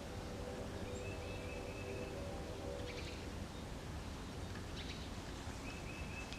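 Steady low background noise with a low rumble, with a few faint thin tones.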